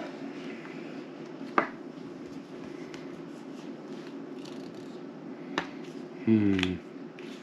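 Playing cards being laid down on a table, with two sharp taps, over a steady low hum. Near the end a short, low, falling "hmm" from a player.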